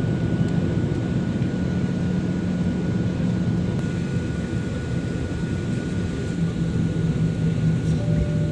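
Airliner engines running in a steady low rumble during take-off, with a thin steady high tone above it.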